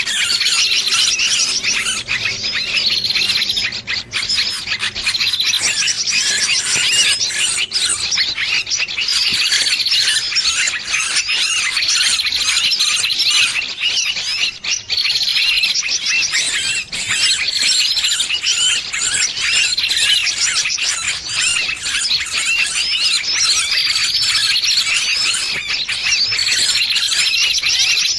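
Bird-lure recording of a small bird's distress calls, the 'pinched bird' (burung kejepit) call used to draw in other birds: a dense, unbroken chatter of shrill, high squeaking chirps.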